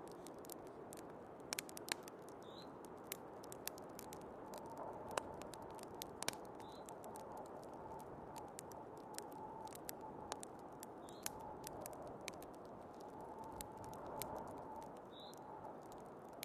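Wood fire crackling with irregular sharp pops over the steady rush of snowstorm wind, which carries a faint wavering whistle through the middle.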